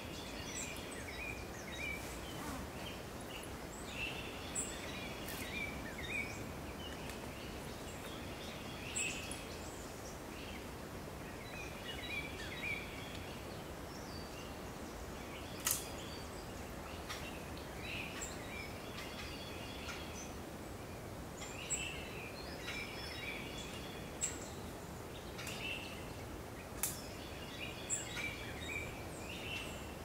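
Swamp forest ambience: a bird calling over and over in short chattering phrases every few seconds, with occasional sharp chips, over a steady faint background hiss.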